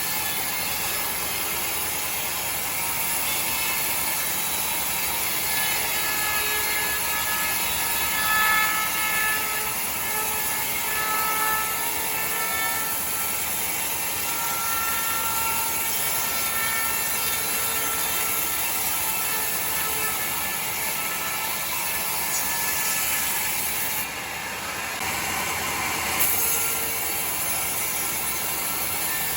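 Sawmill saw running and cutting through a log: a steady, noisy whir with a faint whine, dipping briefly near the end.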